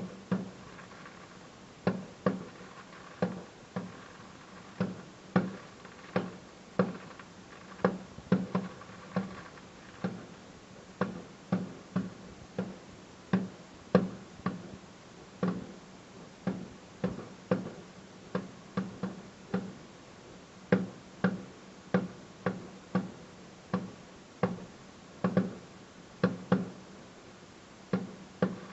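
Firework shells bursting in quick succession: a string of sharp bangs at an uneven pace, about one or two a second, each with a short echoing boom after it.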